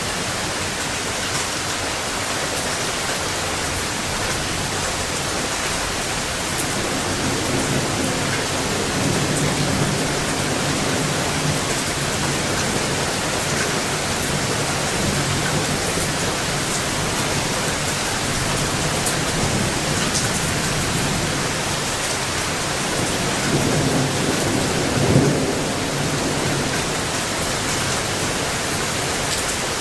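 Steady rain hissing throughout, with thunder rumbling low twice: a longer roll about a quarter of the way in and another near the end that peaks in a short, louder clap.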